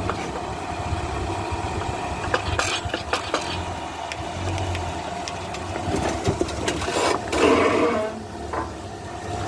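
Jeep engine running at low speed, with scattered metallic clicks and rattles and a louder grinding scrape about seven and a half seconds in.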